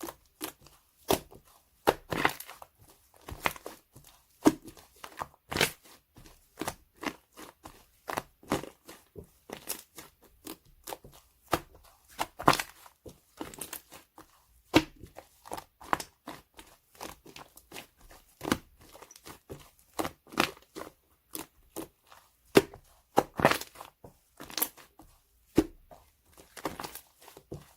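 Irregular crisp crackling and crunching, several sharp clicks a second, from 'ice cream' foam being worked.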